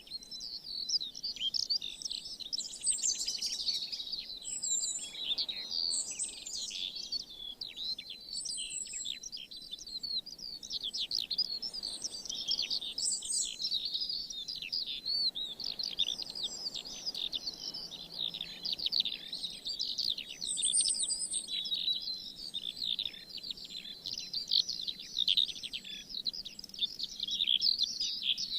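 A dense chorus of many songbirds chirping and trilling at once, with high, quick notes overlapping without a break.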